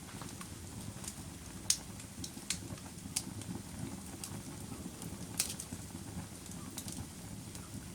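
Campfire burning with a low steady rumble and irregular sharp crackles and pops, about one or two a second. The loudest pops come a little under two seconds in and again a little past five seconds.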